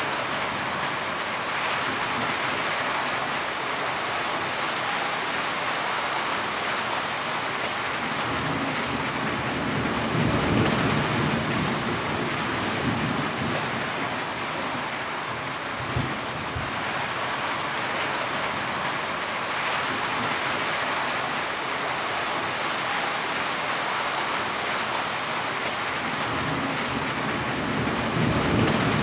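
Heavy rain falling steadily, with low rumbles of thunder swelling about ten seconds in and again near the end, and a short thump midway.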